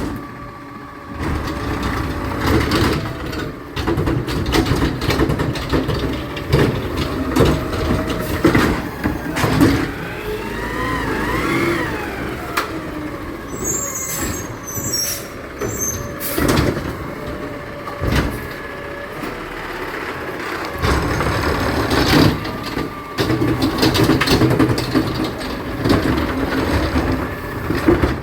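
Garbage truck working: its diesel engine runs under repeated clanks and knocks. A whine rises and falls about a third of the way in, and there are brief high squeals.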